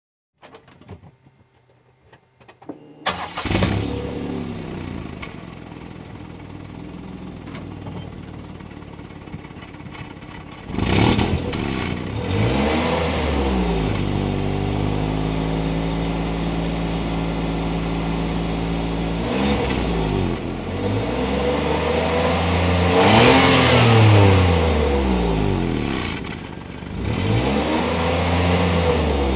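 Maruti Suzuki Celerio's stock exhaust: the engine starts about three seconds in and settles to idle, then is revved several times. Its pitch climbs and falls with each blip, and it is held at a steady higher speed for a few seconds in the middle.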